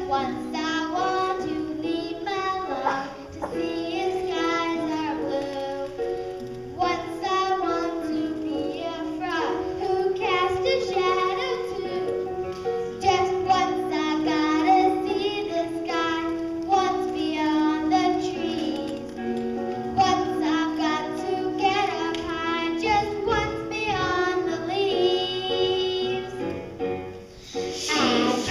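Children singing a song in phrases over instrumental accompaniment.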